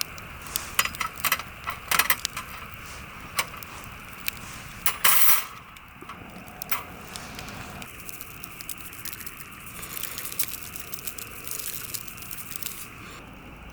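A series of sharp clinks and knocks of small hard items being handled, with a louder scraping rustle about five seconds in, followed by a steady faint crackling.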